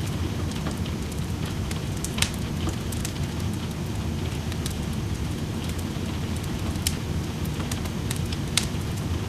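Wood fire crackling in a fireplace, with sharp pops and snaps every second or so over a steady low rush of rain. Several louder pops stand out, about two seconds in, near seven seconds and near the end.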